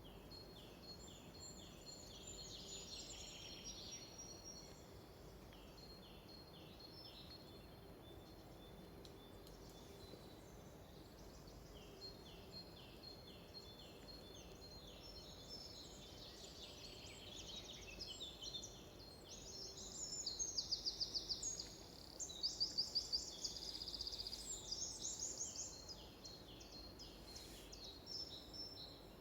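Songbirds singing in a forest: series of short falling notes repeated a few times a second, with louder rapid trills about two-thirds of the way through, over a faint steady background hiss.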